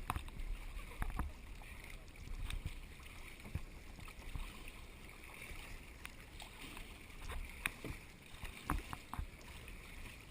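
Kayak out on the water: faint water splashing and lapping, with light scattered knocks and clicks.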